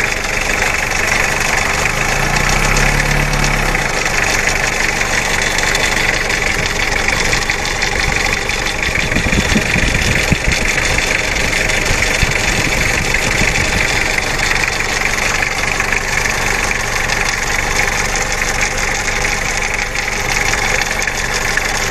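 Mitsubishi 4D56 four-cylinder diesel engine idling steadily with its usual diesel clatter, running normally again after a snapped timing belt and replaced rocker arms.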